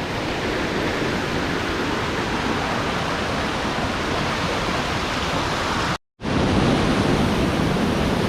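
Waterfall pouring: a steady rushing noise of falling water, broken by a brief sharp gap about six seconds in.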